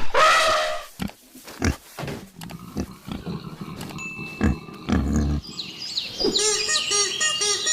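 Animal vocalisations: a pitched call ends right at the start, followed by a run of short, low grunts. From about six seconds in comes a quick series of short, repeated pitched calls, about two a second.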